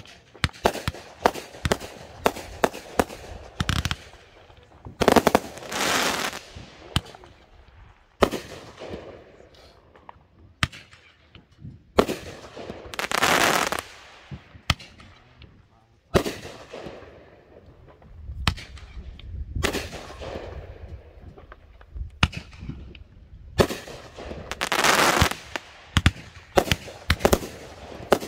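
Consumer fireworks going off in quick succession: many sharp bangs and pops, broken by several louder hissing bursts about a second long.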